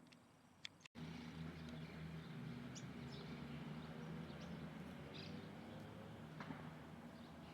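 A few short, faint bird chirps over a steady low hum.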